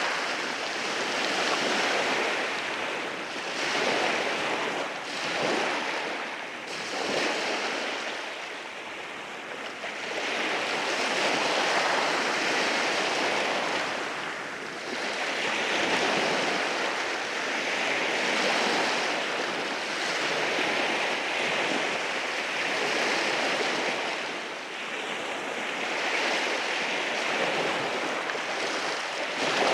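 Sea waves washing in over rocks on a rocky shore, a steady rush that swells and eases every few seconds as each wave breaks and drains back.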